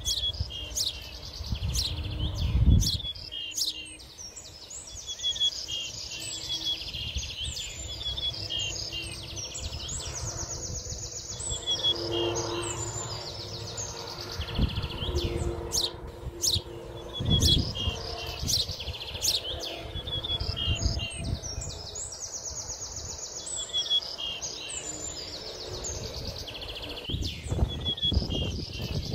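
Small birds singing and calling: fast high trills and quick down-sweeping whistles. Occasional low rumbles of wind buffet the microphone, the loudest about three seconds in.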